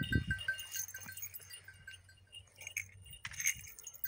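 Small metal bells tinkling: a quick run of light, ringing notes at the start, then scattered chimes, with faint animal sounds around them.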